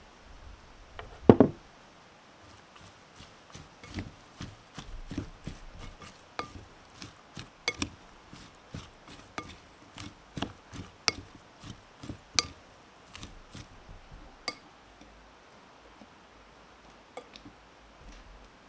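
Knife chopping food on a cutting board: one louder knock about a second in, then a steady run of cuts about two a second that stops a few seconds before the end.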